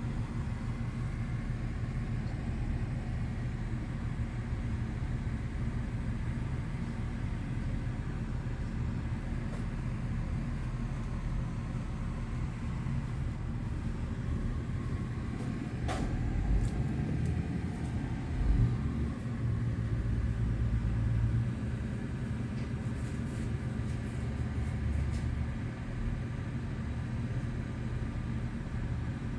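A steady low rumble throughout, with a single sharp click about sixteen seconds in.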